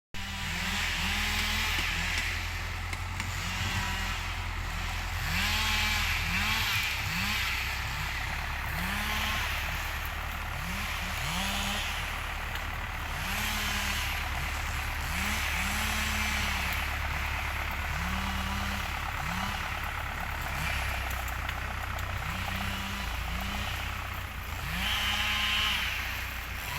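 An engine running steadily with a constant low drone, with a short repeated rise and fall in pitch about every second or two.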